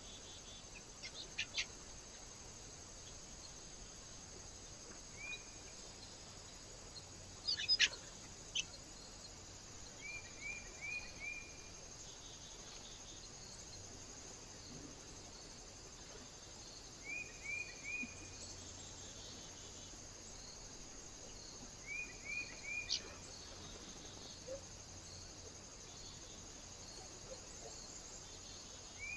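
Small birds calling at a feeder: short chirps in quick runs of three or four, heard about four times, with a few sharp clicks between them, over a steady high hiss.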